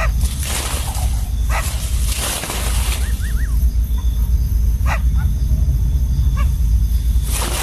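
Steady deep rumble with several bursts of rustling, and a few short high chirps, three of them in quick succession about three seconds in.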